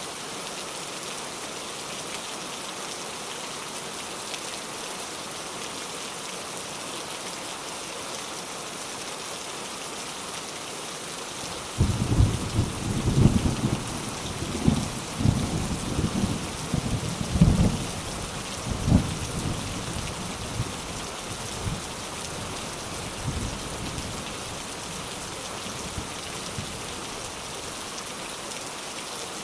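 Steady rain falling on a surface, with a long roll of thunder breaking in about twelve seconds in. The thunder rumbles in several loud peals for several seconds, then dies away under the rain.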